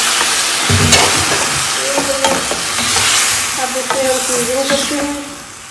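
Diced aubergine frying in tomato-garlic paste, sizzling as a wooden spoon stirs it around a metal pot, with scattered knocks and scrapes of the spoon against the pot. The sizzle drops off near the end.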